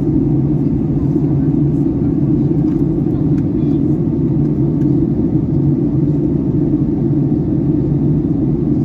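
Steady cabin noise inside a Boeing 757-300 airliner on descent: an even, low rumble of airflow and engines.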